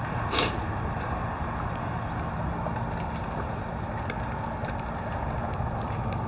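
Steady low rumble of a running vehicle, with a short burst of noise just under half a second in.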